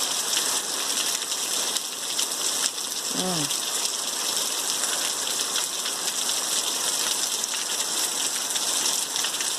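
Steady rain falling, an even, continuous hiss of drops with no thunder.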